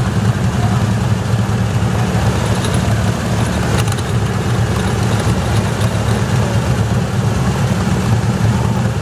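Garden tractor engine running steadily at an even speed, with a brief click a little before the middle.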